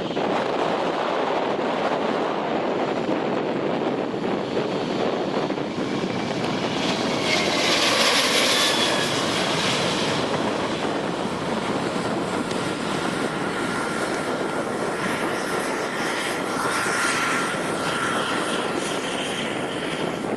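Airliner engines running as the aircraft moves along the runway, loudest about eight seconds in, with a faint steady whine later on.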